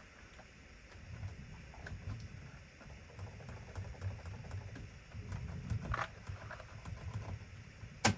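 Small electric motor and plastic gearbox of a vintage toy RC vehicle running, giving an uneven low rattle with many small ticks, with a sharp click near the end.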